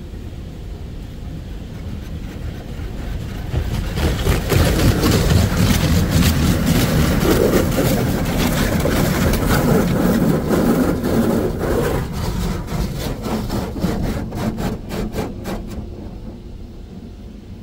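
High-pressure water jets of a touch-free automatic car wash spraying the car, heard from inside the car. The spray swells about four seconds in, then turns into fast pulses as the sprayers sweep past, and fades near the end.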